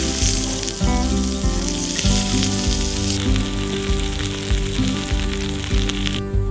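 Food sizzling on a grill over background music. The sizzle cuts off sharply near the end, leaving only the music.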